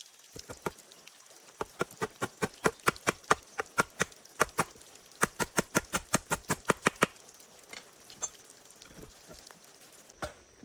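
A fast run of sharp knocks, about five a second, in two bursts with a brief gap, then a few scattered knocks.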